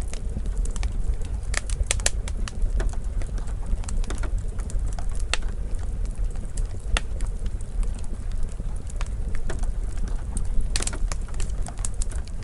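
Wood fire crackling in a fireplace: irregular sharp pops and snaps over a low, steady rumble, with a cluster of louder pops about two seconds in and again near the end.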